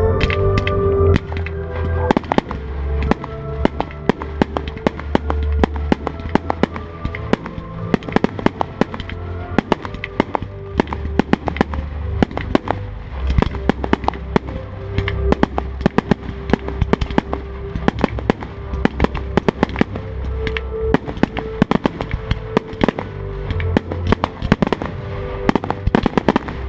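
Fireworks display: many sharp shell bursts and crackles in quick, irregular succession, over loud music played for the show.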